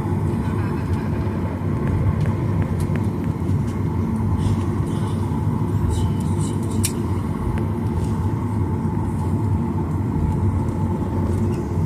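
Steady cabin roar of a Boeing 737-900ER's CFM56-7B jet engines and airflow, heard from inside the cabin, with a few faint clicks.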